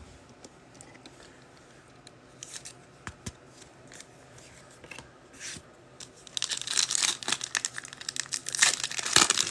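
Foil wrapper of a pack of football trading cards being torn open and crinkled, a dense crackling that starts about six seconds in and runs about three seconds; before that only faint scattered clicks of handling.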